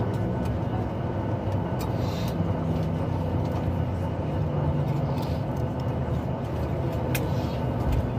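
Steady hum inside a Boeing 737 MAX 8's cabin parked at the gate, with a few faint clicks, about two seconds in and again about seven seconds in.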